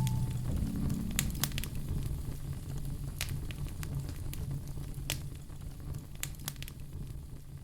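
Wood fire crackling in a fireplace: scattered sharp pops and snaps over a low rumble, gradually getting quieter. The last notes of a soft melodic music passage die away at the very start.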